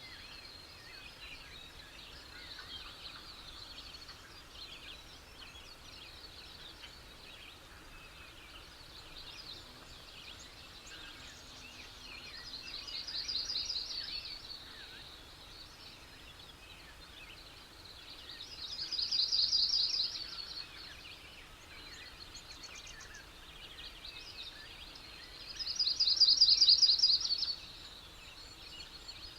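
Outdoor nature ambience of small birds chirping, with three loud, rapid trilled calls of about two seconds each, about six seconds apart and each louder than the last.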